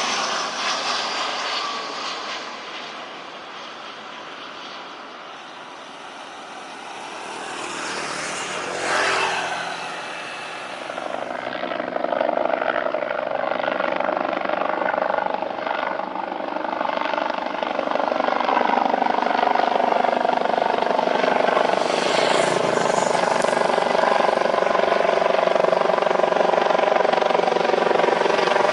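Jet airliner engines at takeoff power. The sound fades a little early on, with a brief sweeping whoosh about nine seconds in. It then builds again from about twelve seconds into a loud, steady engine roar with a droning whine.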